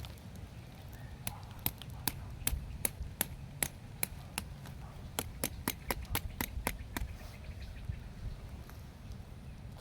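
A series of sharp, short knocks, irregular at first and then about three a second for a couple of seconds, over a steady low rumble.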